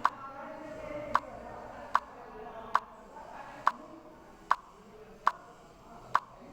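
Chess move sounds: eight sharp, plopping clicks, about one every second or a little less, as moves are played in quick succession.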